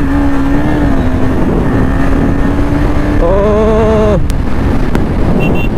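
Motorcycle riding at highway speed, its engine holding a steady note under heavy wind noise on the clip-on microphone. About three seconds in, a louder pitched tone sounds for about a second, followed by a sharp click.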